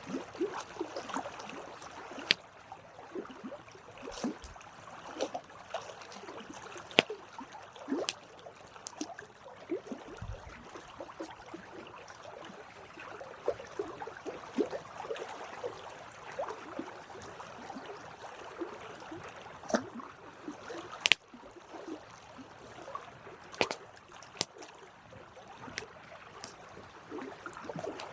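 Wood campfire burning: a steady hiss and flutter of flames with scattered sharp crackles and pops, one louder pop a little past two-thirds of the way through.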